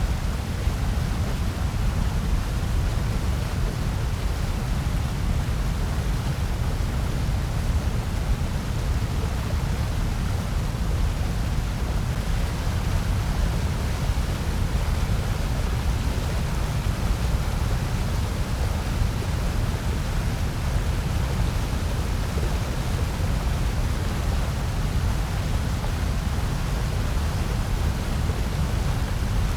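Steady, unchanging synthetic noise billed as white noise: an even rush with most of its weight in a low rumble and a fainter hiss above.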